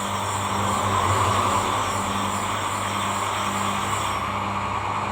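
Electric sharpening machine running steadily with a low hum, its oiled disc grinding against a blade; the higher hiss drops away about four seconds in.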